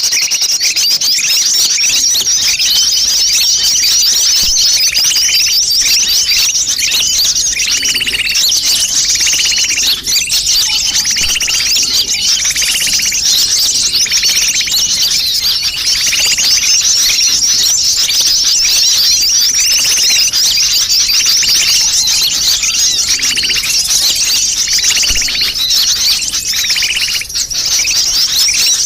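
Dense, high-pitched twittering and chattering of many sunbirds calling at once, without pause: a bird-trapping lure recording of a noisy flock.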